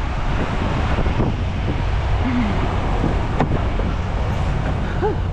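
Peterbilt 579 semi truck's diesel engine running, a steady low rumble with wind noise over it and a few faint short squeaks.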